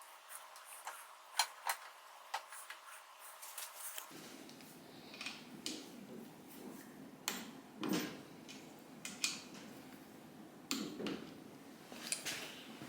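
Scattered light clicks and clinks of small metal parts and hand tools being handled during motorcycle assembly, with a few duller knocks. A faint steady tone in the background stops abruptly about four seconds in.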